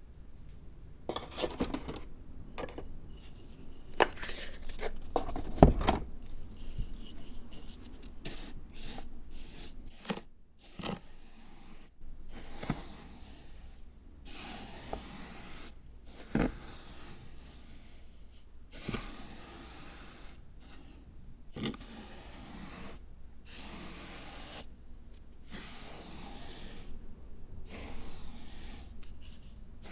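Scraping and rubbing from handwork on a miniature zen dry-landscape garden diorama, in uneven strokes with a few small knocks, the loudest about six seconds in.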